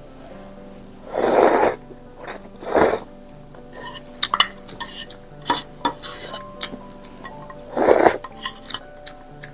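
Eating sounds: a fork and spoon clinking and scraping against dishes in many short clicks, with three louder noisy bursts, one about a second in, one just under three seconds in, and one near the end.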